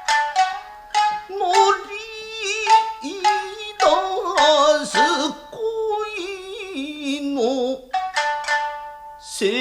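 Nagauta music: shamisen plucking sharp, quickly decaying notes under a singer's long held notes with a wide, wavering vibrato.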